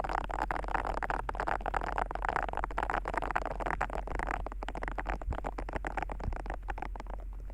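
Ear-pick tip scratching and rubbing inside an ASMR microphone's ear: a steady, close, dense crackle of tiny scrapes and clicks.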